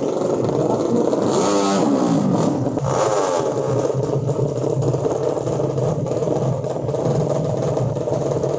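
Small-displacement underbone drag-race motorcycle engines revving hard. One climbs in pitch and drops back about two seconds in, then another rises, over a steady drone of engines.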